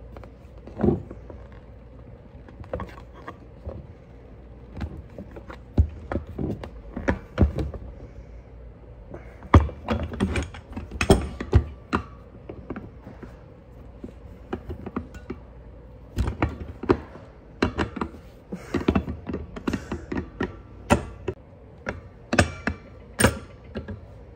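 Irregular knocks, clicks and clanks of hands and tools working on a hand-operated button maker's parts, as its bent positioning pins are worked on.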